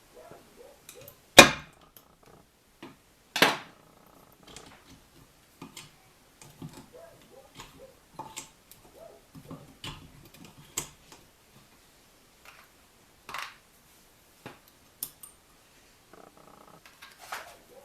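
Knocks and clicks of tools and metal engine parts being handled, with two louder sharp knocks in the first few seconds and scattered lighter taps after.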